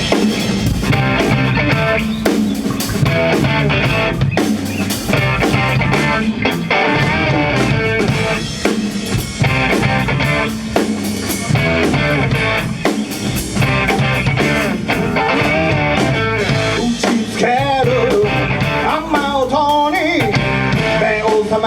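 Band music with electric guitar over a drum kit, playing the instrumental intro of a song. In the last few seconds the guitar's notes bend and waver.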